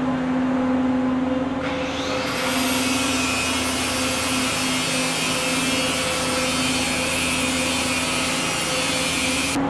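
A power tool running steadily: a constant motor hum and whine over a loud hiss.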